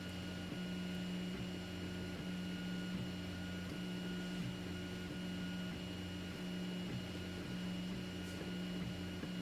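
Zonestar P802M 3D printer printing: its stepper motors hum in low steady tones that shift and restart every half second or so as the print head changes direction, over a faint constant high whine.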